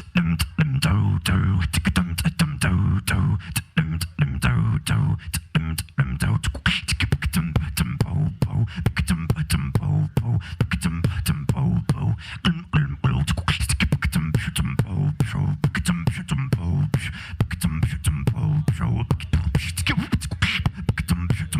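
Solo beatboxer performing a fast, dense beat: rapid vocal clicks and snares over heavy, pulsing bass.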